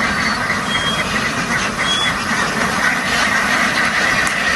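A large flock of ducks quacking together in a steady, dense chorus.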